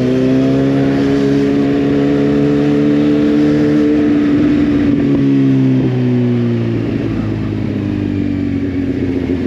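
Kawasaki Z800R inline-four engine running steadily at low speed, its pitch drifting slightly up and then easing off about six seconds in as the throttle is rolled back.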